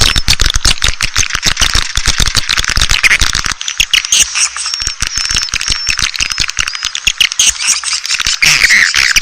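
Recorded swiftlet lure call: a dense chorus of many swiftlets chirping and twittering at once, thick with rapid clicks and short high squeaks. It is the kind of call played to draw swiftlets into nesting houses.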